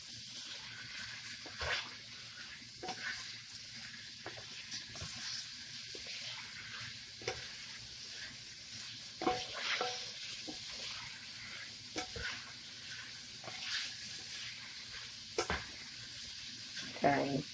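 Chopped chicken sizzling as it sears in grapeseed oil in a nonstick sauté pan, a steady hiss. A silicone spatula stirring it makes short scrapes and taps against the pan every second or two.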